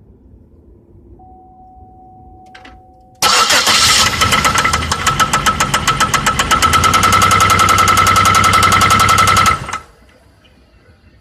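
Supercharged 3.8-litre V6 of a 2004 Pontiac Grand Prix GTP starting about three seconds in, running about six seconds with a rapid, even knocking pulse, then shut off. The knock is the sign of a worn connecting-rod bearing at 200,000 miles.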